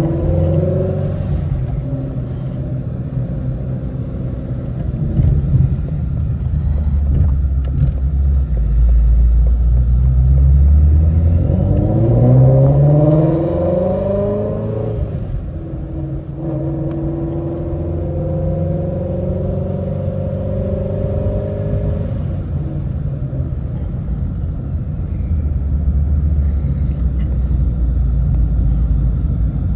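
Ford Shelby GT350's 5.2-litre flat-plane-crank V8 heard from inside the cabin, its exhaust set loud in track mode. The engine runs under a steady rumble, revs up with a sharply rising pitch about a third of the way in, then holds a steady note for several seconds.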